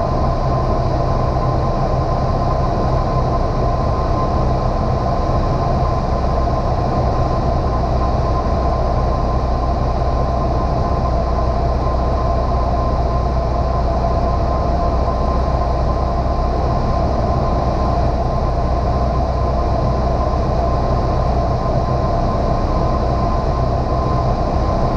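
Steady drone of a small single-engine piston airplane's engine and propeller, heard inside the cabin in flight, with a constant hum and an even rumble that do not change.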